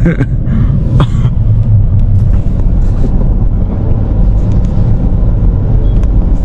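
Steady low rumble of a car driving on the road, heard from inside the cabin, with one brief click about a second in.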